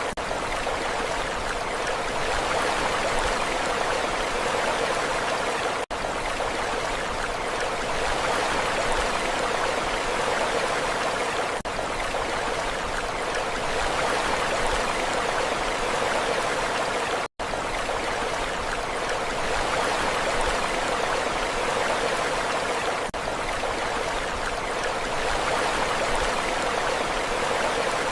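Sea surf: a steady wash of rushing water, with short dips in level about every six seconds.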